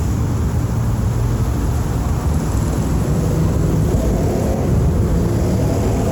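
Steady low rumble of dense road traffic, with an engine drone joining about four seconds in.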